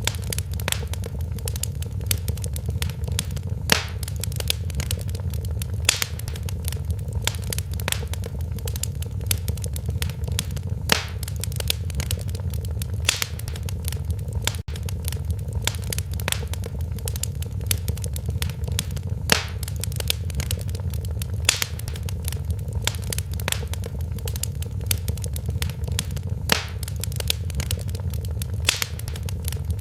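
Wood fire burning in a fireplace: a steady low rumble of flames with frequent irregular crackles and sharp pops, a few of them louder.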